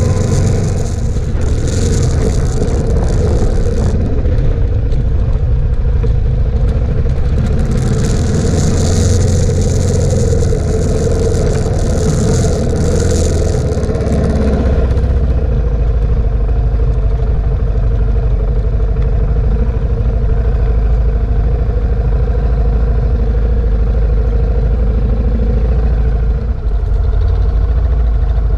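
Suzuki DR650's single-cylinder engine running under way, with wind rushing over the camera mic. About halfway through, the wind hiss fades and the engine note settles lower as the bike slows to a crawl.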